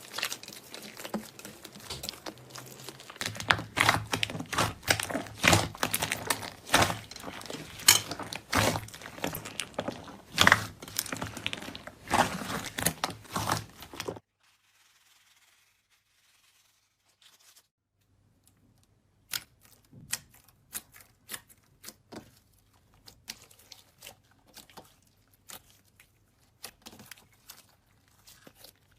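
Slime being squeezed and pressed by hand close to the microphone, giving dense crackling and popping. The sound stops for a few seconds about halfway, then comes back as sparser, softer pops.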